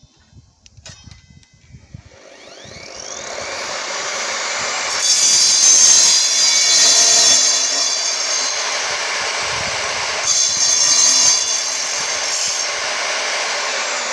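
Evolution R255SMS mitre saw's motor spinning up with a rising whine, then its blade cutting, with two louder stretches as it bites harder into the workpiece.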